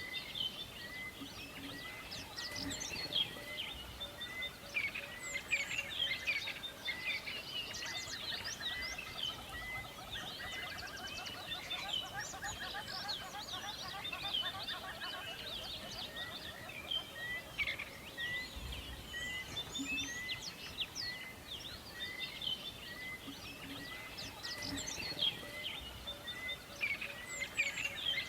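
Forest birdsong: many birds chirping and singing at once, with one short high note repeating evenly a little more than once a second underneath, over a light steady background hiss.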